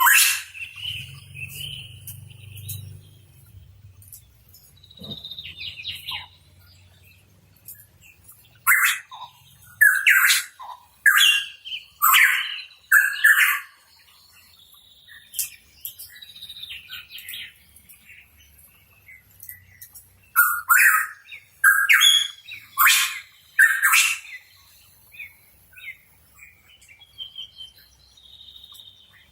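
Pitohui calling in short, loud chirping notes, bunched into two quick runs, one about a third of the way in and another about two-thirds in, with quieter scattered calls between them.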